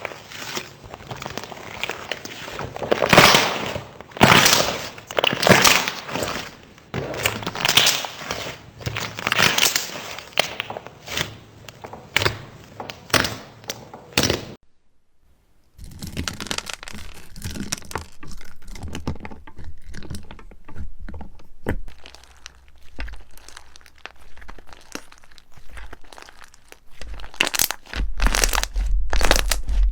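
Slime being squeezed and pressed by hand, with dense crackling and crunching for the first half. After a brief silent gap about halfway, sparser clicks and crackles follow.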